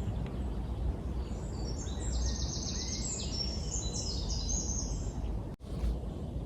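A small bird singing several quick, high trilled phrases over steady outdoor background noise with a low rumble. The sound briefly cuts out near the end.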